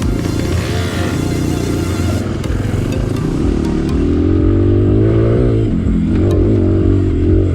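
Dirt bike engine running and revving, its pitch rising and falling with the throttle, with some clatter.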